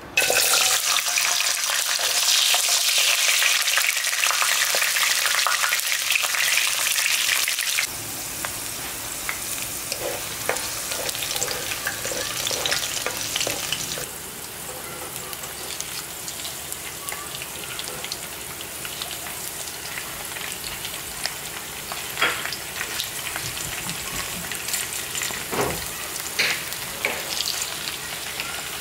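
Whole garlic cloves frying in hot oil in a pan. There is a loud sizzle as they go in, then the level drops abruptly twice to a steadier, quieter sizzle with a few sharp pops near the end.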